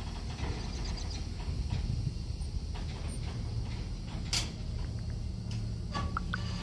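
Train moving slowly in reverse: a steady low rumble with scattered creaks and knocks from the cars, and one sharp knock about four seconds in.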